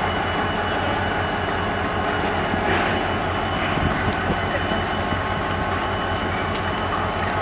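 Locomotive at a station running with a steady low rumble, with a steady high whine above it and a few faint knocks.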